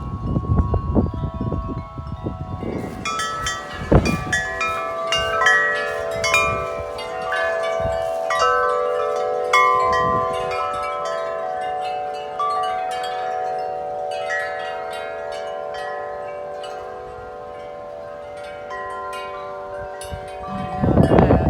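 Wind chimes struck hard and fast by strong gusts, many overlapping ringing tones clanging together. About three seconds in, the clanging sets in after a stretch of wind rumble on the microphone. It slowly thins out toward the end as the wind rumble comes back.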